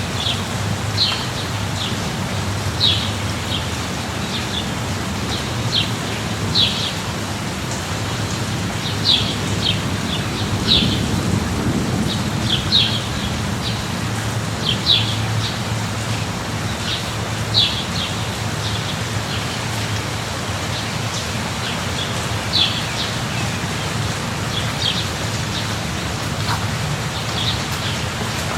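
Steady rain with a low rumble underneath that swells briefly about a third of the way in. A bird chirps repeatedly over it: short high chirps every second or two, some in pairs.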